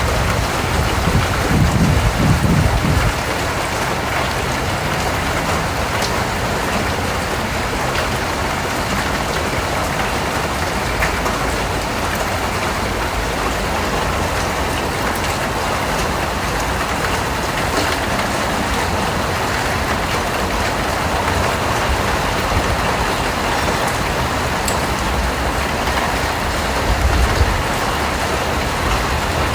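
Steady rain, a dense even hiss with scattered drop ticks. A low rumble swells under it for the first three seconds and again briefly near the end.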